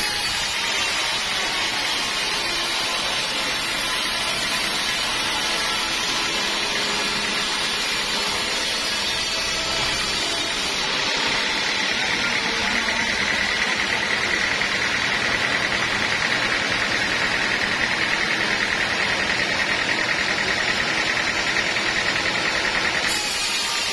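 Sawmill saw running while it cuts a teak log into planks. A high steady whine fades in the first few seconds, comes back about halfway through and stops abruptly shortly before the end.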